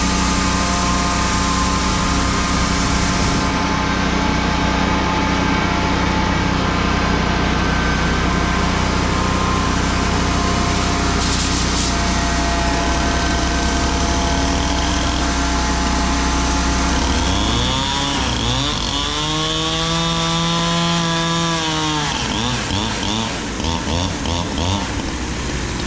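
A chainsaw running with an engine going steadily underneath, then revved to full throttle about 18 seconds in and held for about four seconds before dropping back and blipping unevenly.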